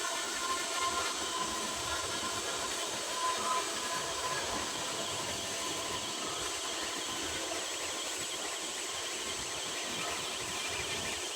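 Welding arc on a carbon steel pipe, a steady hissing crackle that holds even without a break.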